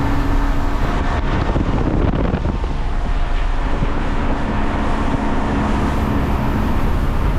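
Outboard motor driving a small boat under way, a steady engine hum under wind buffeting the microphone and the rush of water against the hull.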